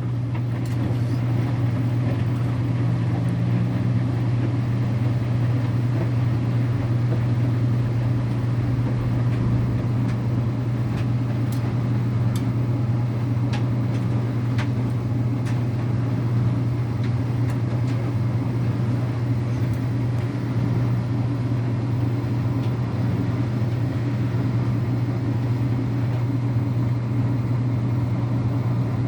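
Electrolux Wascator W355H washing machine draining at the end of its wash: a steady low hum with water running out and a few faint clicks.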